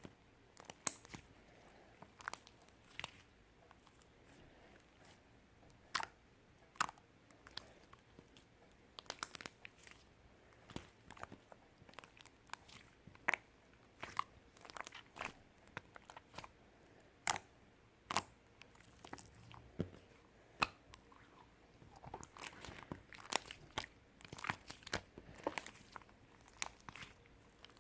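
Irregular crisp crunches and clicks at close range, unevenly spaced, coming in denser clusters near the middle and toward the end.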